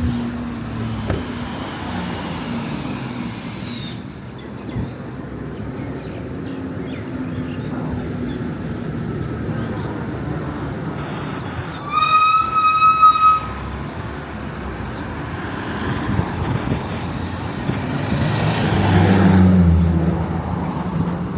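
Street traffic with vehicles going by, and a car horn sounding about halfway through in a short run of quick toots lasting about a second and a half. Near the end a vehicle passes close and loud.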